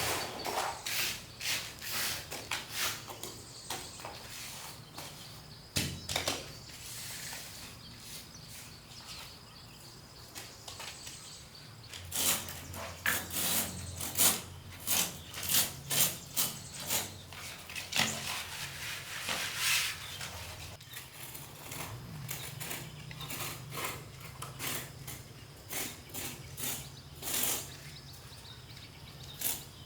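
Irregular run of sharp knocks, taps and short scrapes from hand tools working bamboo, coming thickest in the middle stretch.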